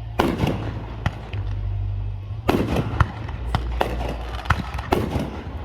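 Aerial fireworks going off: a crackling burst just after the start, another about two and a half seconds in, then a string of sharp separate bangs.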